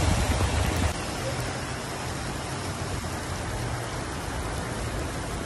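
Rain falling in a steady hiss. A low rumble under it in the first second drops away about a second in.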